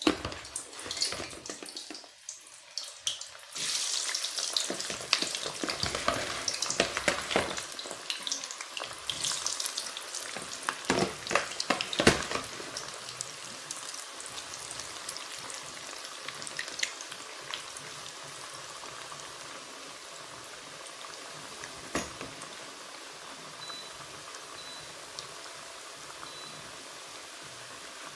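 Raw potato fries deep-frying in hot vegetable oil in a frying pan. The sizzle starts suddenly a few seconds in and is full of crackling for the next several seconds, then settles into a steady hiss of bubbling oil.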